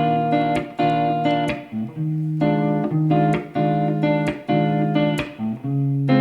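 Guitar playing chords in a steady rhythm, each stroke struck sharply and ringing until the next; no singing.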